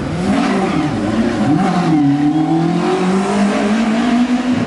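Rally car engine revving hard: over the first two seconds the pitch wavers and dips with the throttle, then it climbs steadily as the car accelerates away.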